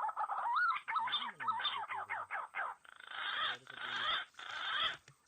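Bird calls: wavering, gliding whistled notes, then a quick run of short notes and a few harsher rasping notes, all cut off sharply above the mid-treble as from a small speaker.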